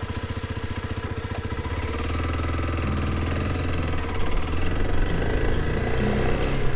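Kawasaki KLX 300's single-cylinder four-stroke engine running with even, distinct firing pulses. From about two seconds in it smooths into a steadier, slightly louder run as the motorcycle gets under way, with light sharp ticks from about three seconds in.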